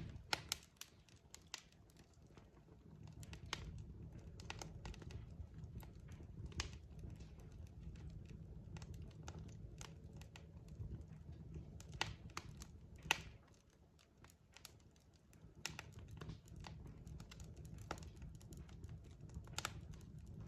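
Log fire crackling: irregular sharp pops and snaps over a low, steady rumble of the flames, with one louder pop about 13 seconds in.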